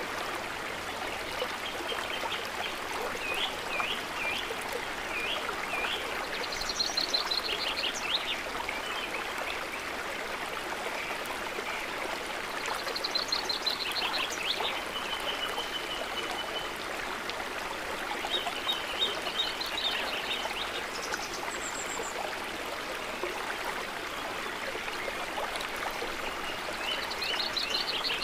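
Steady soft trickling of water, with birds calling every several seconds in short, quick, high chirping trills.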